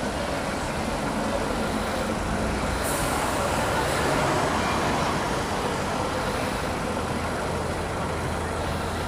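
Steady road and traffic noise heard from a Honda CBF 125 motorcycle riding through city traffic, swelling a little about four seconds in.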